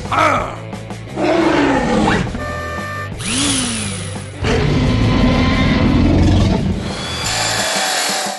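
Background music with cartoon sound effects laid over it, among them several sliding pitch sweeps, mostly falling.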